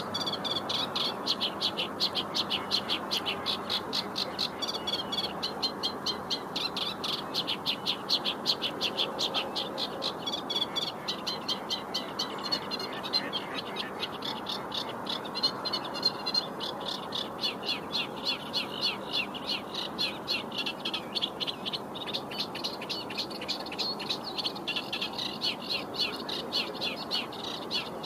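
Reed warbler singing a long, continuous song of rapid repeated notes, with only brief let-ups, over a steady background noise.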